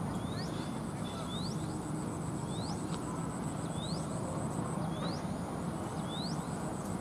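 A bird repeats a short rising chirp about once a second over steady low outdoor background noise.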